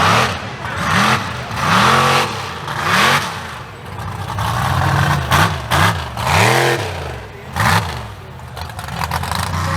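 Mega mud truck engine revved hard over and over, its pitch climbing and dropping about seven or eight times, with bursts of rushing noise between the revs.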